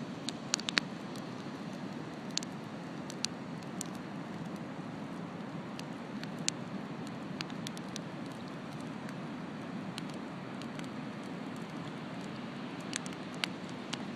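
Beach bonfire crackling, its burning wood giving off scattered sharp pops, a few louder ones near the start and near the end, over a steady low rush.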